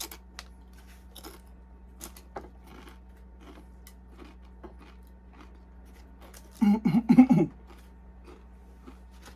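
A person crunching and chewing the Paqui One Chip Challenge chip, a spicy tortilla chip, in a run of small crunches. About seven seconds in comes a short, loud vocal burst.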